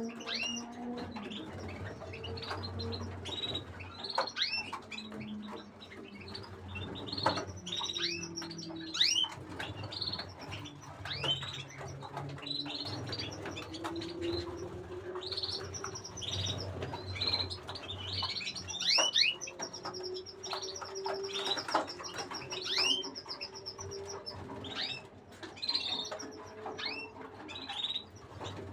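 Domestic canaries chirping steadily with many short calls and quick high trills.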